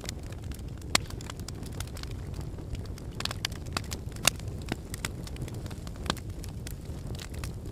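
Wood fire burning in a fireplace: a steady low rumble of flames with irregular sharp crackles and pops from the logs, the loudest pops about a second in, near the middle and about six seconds in.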